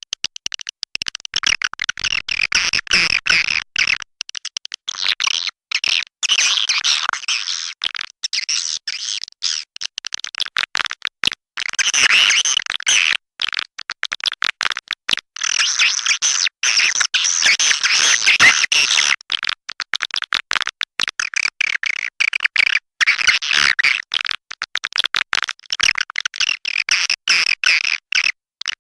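Swiftlet calling sound of the kind played to lure swiftlets to nest: a loud, dense stream of rapid, stuttering high chirps and twitters that swells into busier bursts several times, with brief breaks in between.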